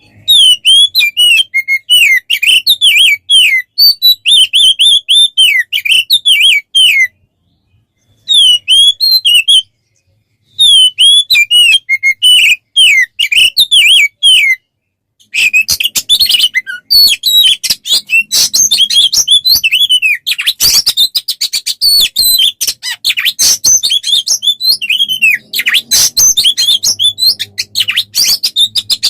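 A songbird's rapid, varied song of quick sweeping and chattering notes, of the kind played as a tutoring recording for kacer (Oriental magpie-robins). It comes in long runs broken by short pauses about a third, a half and half-way through, and grows denser and more continuous in the second half.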